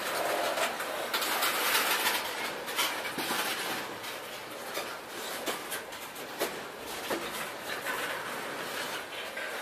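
Freight train of tank cars rolling past close by: steel wheels on the rails, with a steady rumbling hiss and scattered clicks and clanks.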